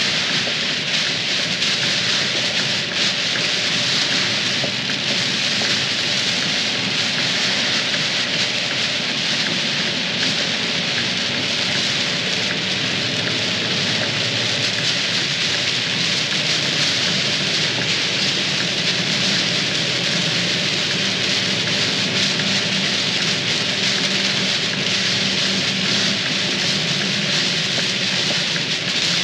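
Heavy rain beating steadily on a moving dump truck, with the truck's engine running underneath as a low drone.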